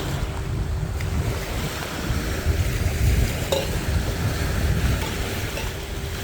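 Water rushing and splashing along a boat's hull with wind buffeting the microphone, over a faint steady hum.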